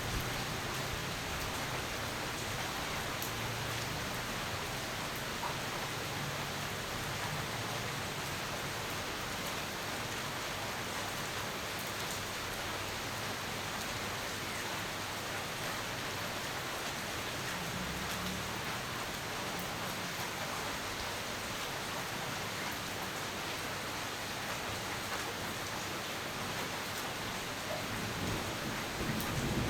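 Steady heavy rain falling, with a faint low rumble of distant thunder now and then, the clearest about two-thirds of the way in and another building near the end.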